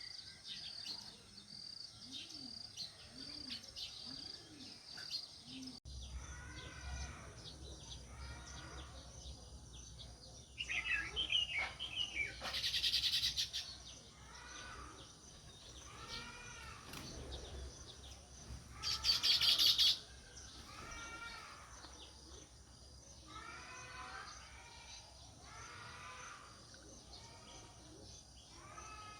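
House sparrows chirping, with a steady run of short repeated chirps. Two louder, harsh buzzing bursts come about 13 seconds in and near 19 seconds.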